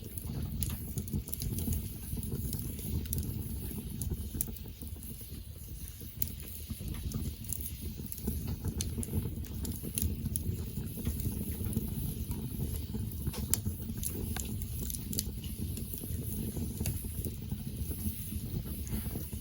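Wood fire burning: crackling and popping in irregular sharp clicks over a steady low rumble.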